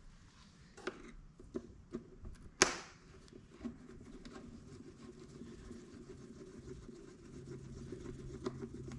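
Scattered light clicks and taps of metal parts and hand tools being handled while working on an ATV's intake hoses and clamps, with one sharper click about two and a half seconds in.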